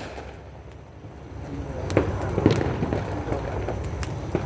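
Fireworks going off: a few scattered sharp bangs, the first about two seconds in, over a steady low background din.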